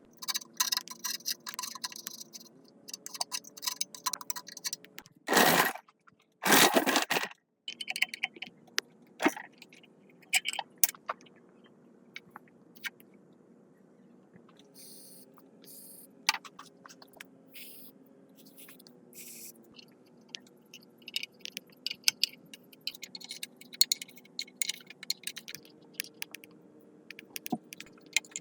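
Hand work on metal parts: scattered clinks, taps and scrapes, with two loud rushing bursts about five and a half and six and a half seconds in. Faint steady tones that shift in pitch run underneath.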